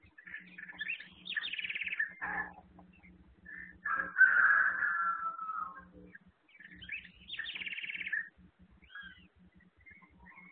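Birds calling: a run of chirps and buzzy calls, the loudest a longer call about four seconds in that drops slightly in pitch. Picked up by a security camera's microphone, with a faint low hum under it.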